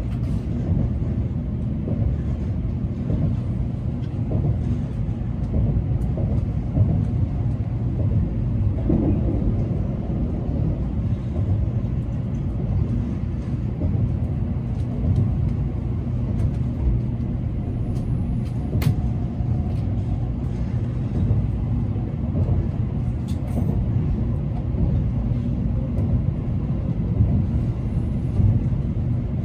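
Tokaido Shinkansen train running, heard inside the carriage as a steady low rumble, with a single sharp click about two-thirds of the way through.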